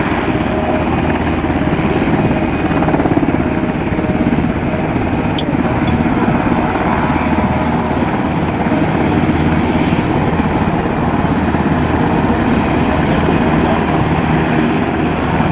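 Helicopter running overhead: a steady, loud beat of rotor and turbine engine noise.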